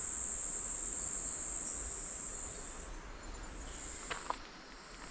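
Steady high-pitched chirring of insects, which breaks off for a moment about three seconds in and then resumes. A couple of faint clicks come near the end.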